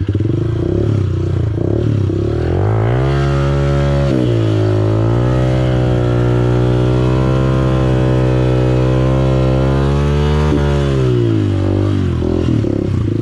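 Dirt bike engine revved up and held at high revs for about eight seconds, with a brief dip near the start, then let back down to a lower rev.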